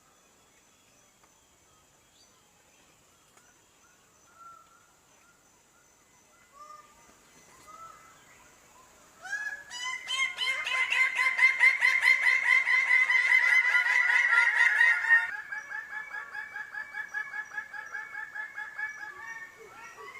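Bird-of-paradise calling: a few faint scattered calls, then about nine seconds in a loud, rapid run of harsh repeated notes. About six seconds later this drops to a quieter, still rapid series of calls.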